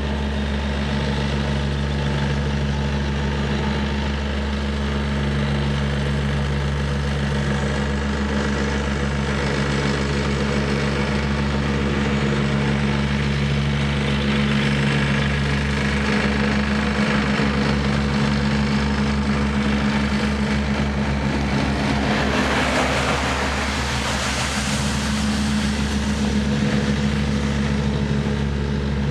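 Diesel engine of a Wacker Neuson 75Z3 midi excavator running steadily. About two-thirds of the way through, a rushing noise swells and fades.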